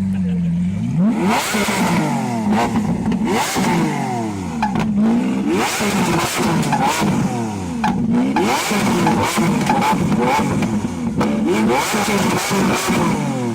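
Vehicle engine with a loud aftermarket exhaust idling steadily, then revved up and down over and over, its pitch climbing and falling with each rev, with sharp cracks between some of the revs.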